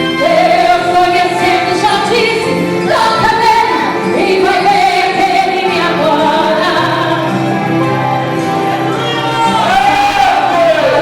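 Gospel song with a female lead voice singing long held notes over instrumental backing.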